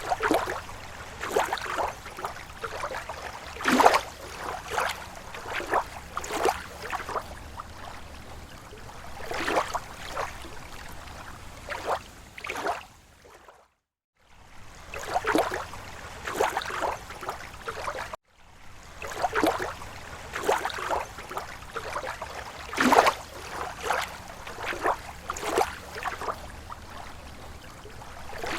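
Small waves lapping at a lake shore: irregular splashes and gurgles of water, a few every second. The sound cuts out briefly twice, about 14 and 18 seconds in.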